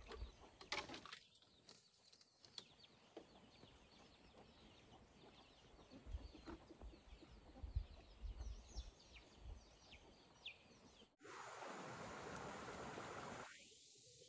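Faint outdoor ambience with scattered small bird chirps and light clicks. About eleven seconds in it cuts abruptly to a steady hiss lasting a couple of seconds.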